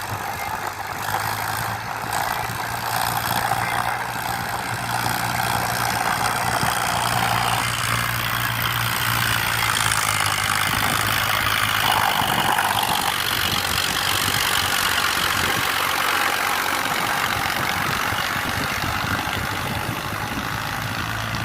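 Powertrac 439 DS tractor's diesel engine running steadily while hauling a loaded trolley.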